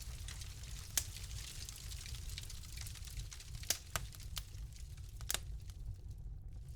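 Wood fire crackling: a steady low rumble and hiss of flames with sharp pops, one about a second in and a cluster of several in the second half.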